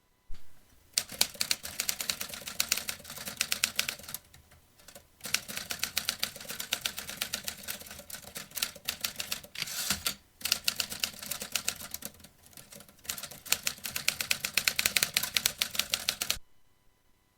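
Vintage typewriter keys struck in quick runs of rapid clacks, broken by a few short pauses. The typing stops about a second before the end.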